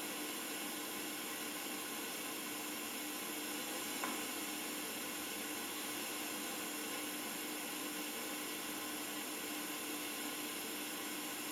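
Steady hiss of the recording's background noise with a faint low hum, and one faint tick about four seconds in.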